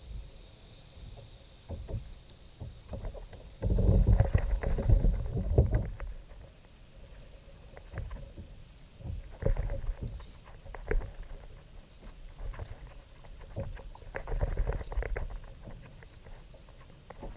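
Sounds of a kayak on the water: irregular knocks against the hull and water sloshing, loudest about four to six seconds in.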